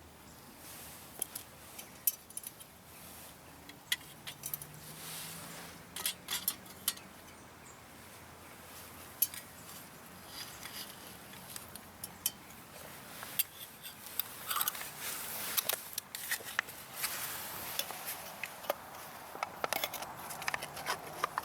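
Light metallic clinks and clatter of camp cookware being handled: a steel cup and grate over a solid-fuel stove. The clinks come scattered at first and grow denser in the second half.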